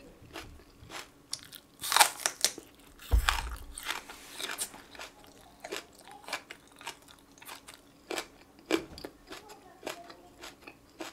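Close-up crunching and chewing of a raw green onion (daepa) stalk: crisp crunches and small clicks throughout, with the loudest bites about two and three seconds in.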